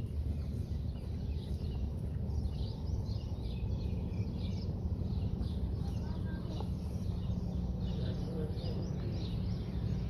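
Many small birds chirping in quick, repeated high chirps over a steady low background rumble of outdoor noise.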